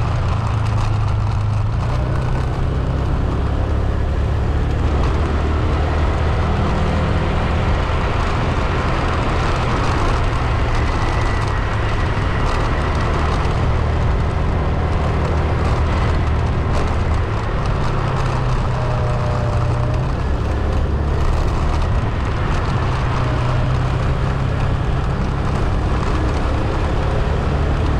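Steady rumble of a vehicle driving along a road, engine and tyre noise holding at an even level with no let-up.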